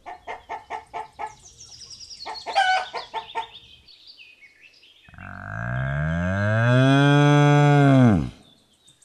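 Rooster clucking in quick repeated notes with a short squawk, then a single long, deep moo from cattle lasting about three seconds, its pitch rising and then falling away.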